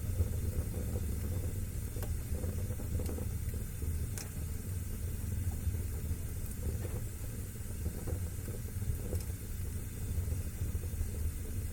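Fire burning in a fireplace: a steady low rumble of flames under a hiss, with scattered crackles and pops, one sharper pop about four seconds in.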